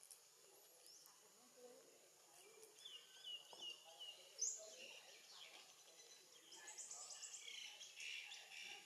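Faint outdoor ambience with small birds chirping in the background: a short run of repeated notes, a sharper call about halfway, then quicker chattering toward the end.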